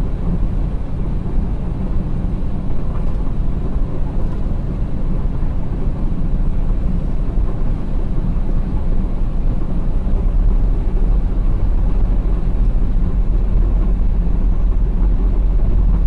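Steady rumble of a moving road vehicle, engine and road noise, heavy in the low end and without any sharp impact.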